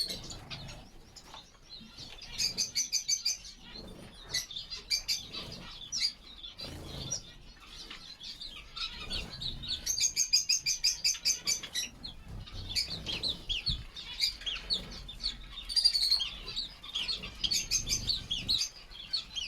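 Small finches chirping and calling, with wing flapping as they bathe. Two runs of rapid, stacked calls stand out, about 2.5 seconds in and again around 10 seconds.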